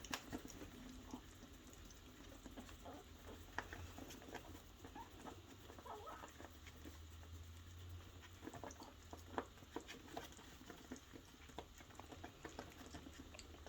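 Young puppies moving about and nibbling at their food: faint, scattered clicks and pattering.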